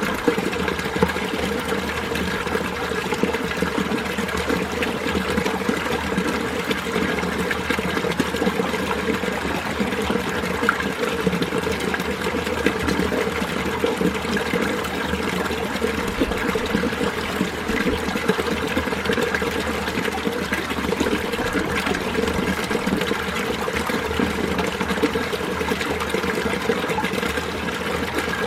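Mountain stream water flowing steadily, a continuous even rush and burble.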